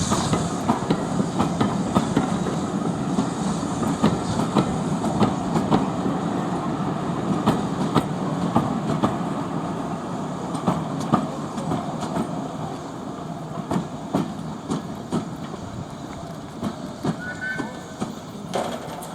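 Train rolling along the track, its wheels clicking over the rail joints in a steady clickety-clack over a low rumble, slowly fading as it moves away.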